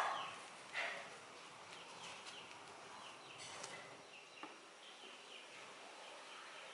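Faint bird chirps, many short calls, with a brief handling clatter about a second in.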